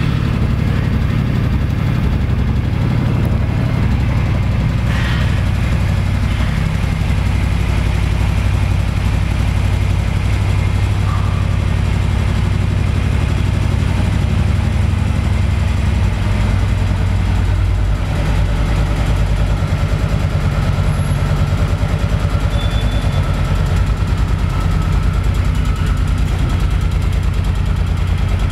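2009 Suzuki Boulevard M50's 805 cc V-twin idling steadily just after starting, a low, even exhaust beat.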